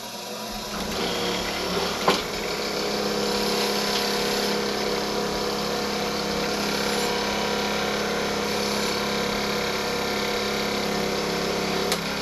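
Motor-driven wire wheel spinning up to speed and running steadily, used to clean sap and grime off lopper blades, with a sharp knock about two seconds in.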